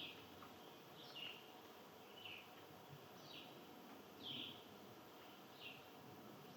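A bird chirping over and over, about one short call a second, each call dropping in pitch, faint over a steady low background hiss.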